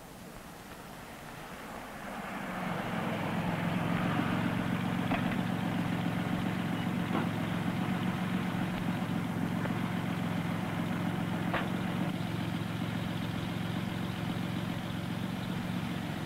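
Air-cooled turbocharged flat-six of a 1962 Chevrolet Corvair Monza Spyder idling steadily, coming up about two seconds in and then holding an even low hum.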